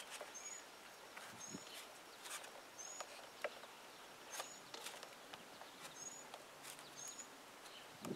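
Faint outdoor background: a bird chirping about six times, short high chirps roughly a second apart, with a few faint clicks from hands working the copper line set.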